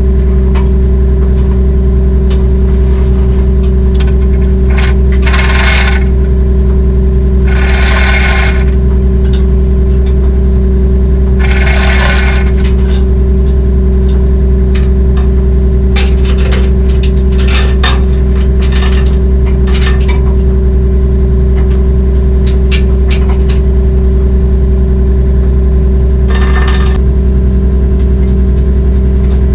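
Heavy diesel engine running steadily at one constant pitch. Three loud bursts of noise come in the first half and another near the end, with scattered sharp clicks and rattles in between.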